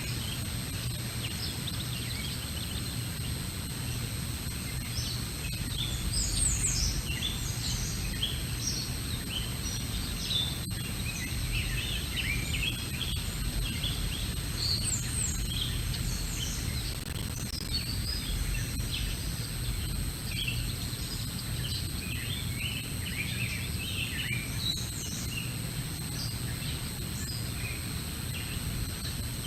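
Small songbirds chirping and calling throughout, many short quick notes, busiest from about six seconds in, over a steady low rumble and a faint steady high whine.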